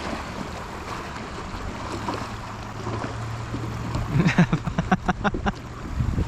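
Wind and river water around a kayak on the river. About four seconds in comes a quick run of knocks and scrapes against the hull.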